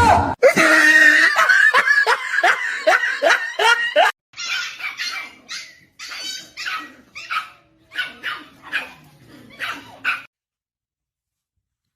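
A dog yipping and whining in a quick run of short calls for about four seconds, then in sparser, fainter yips, stopping about ten seconds in.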